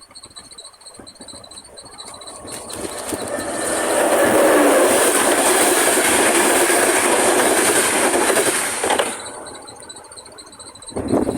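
A train passing over a level crossing, building up over a couple of seconds, loud for about five seconds, then dropping away suddenly about nine seconds in. A steady high ringing, likely the crossing's classic warning bell, is heard before and after the train.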